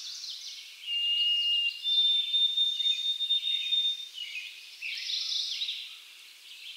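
Birds singing: a busy run of short chirps and trills, with a steady whistled note about a second in and a higher whistle held for about two seconds.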